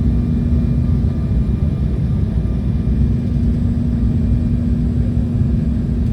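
Steady jet engine and airflow rumble inside an airliner's cabin, with a constant low hum running through it.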